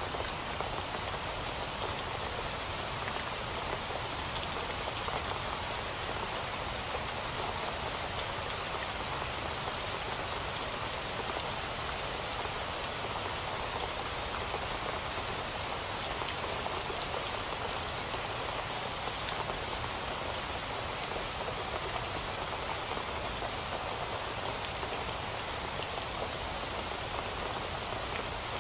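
Steady rain falling, a continuous hiss of drops with fine scattered patter on a surface.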